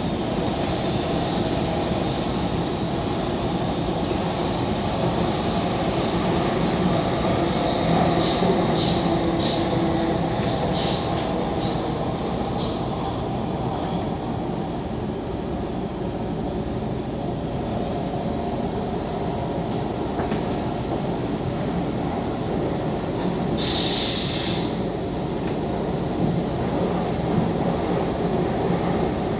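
MTR K-Train metro car running along the track, heard from inside the car: a steady rumble under a high whine that wavers and glides in pitch. A run of short high wheel squeals comes about a third of the way in, and a louder squeal lasting about a second comes near the end.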